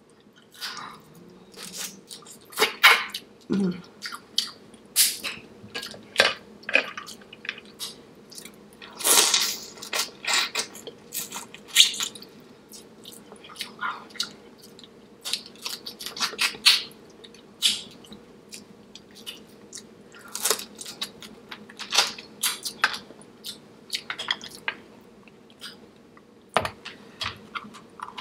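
Close-miked chewing of a seafood boil in sauce: wet, irregular mouth smacks, crunches and clicks, over a faint steady hum.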